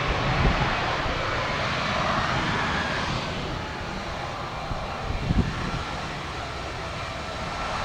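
Mitsubishi CRJ-550 regional jet's engines as it rolls out on the runway after landing: a steady rushing jet noise that eases slightly, with a few low thumps.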